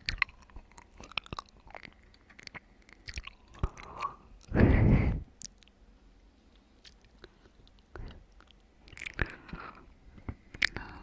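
Close-miked chewing and wet mouth sounds of someone eating watermelon: scattered moist clicks and smacks, with one loud burst of noise about halfway through.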